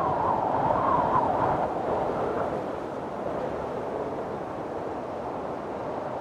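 Windstorm wind blowing hard and steadily. A stronger gust in the first two seconds carries a wavering howl, then eases.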